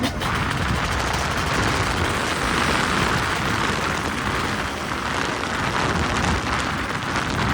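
Dirt bike being ridden, its engine running under a steady rush of wind on the microphone.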